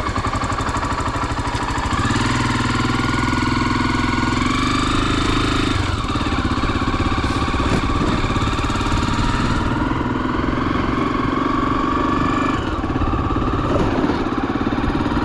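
Honda XR 250 Tornado's single-cylinder four-stroke engine running as the motorcycle rides, its note rising about two seconds in, dipping around six seconds and dropping again later as the rider changes speed.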